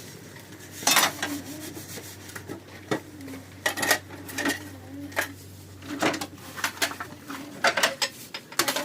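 Pots, dishes and metal utensils clinking and knocking together in irregular strikes, some with a short ring.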